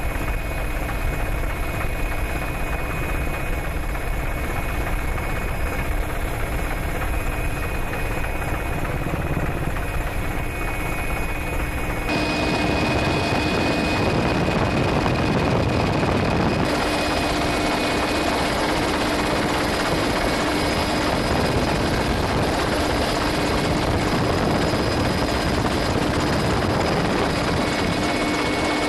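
Helicopter in flight: steady rotor and turbine noise with a constant high whine. About twelve seconds in, the sound turns brighter and a little louder.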